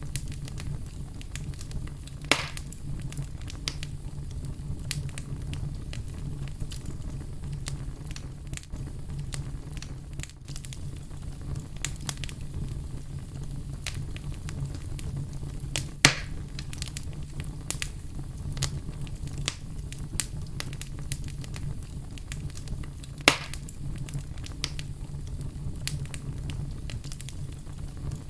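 Fire crackling: a steady low rumble of flames under many small scattered crackles, with three sharp, louder pops, about two seconds in, about halfway through and near the end.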